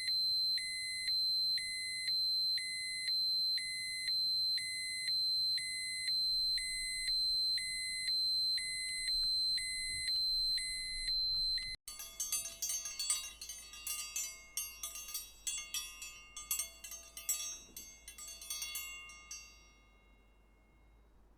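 Electronic alarm: a steady high tone with a beep pulsing over it a little more than once a second, cutting off suddenly about twelve seconds in. A second alarm follows at once, a fast, rattling ring that fades away over the last few seconds.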